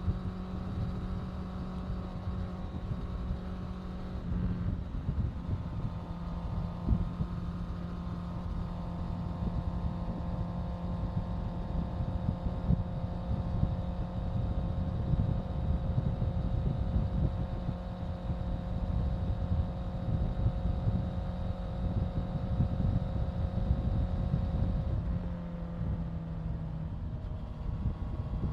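Honda CBR650F's inline-four engine running at a steady cruising speed, with wind rushing over the microphone. The engine note eases down slightly near the end.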